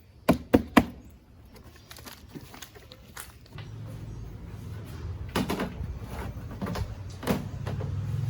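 Three quick, sharp knocks, then a low steady hum starts about three and a half seconds in and slowly grows louder, with a few more knocks over it.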